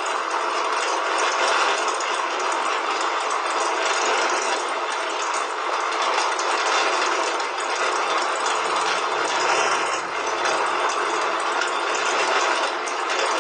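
Small motor driving a gear mechanism, running steadily with a dense, gritty rattle.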